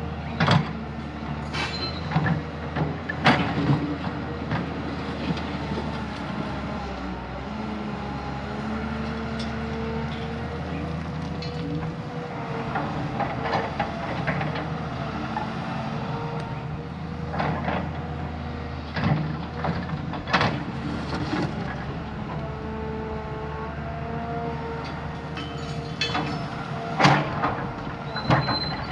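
Heavy diesel earthmoving machine running steadily, its engine note shifting a little with load, with repeated sharp metallic clanks and knocks from the machine at work.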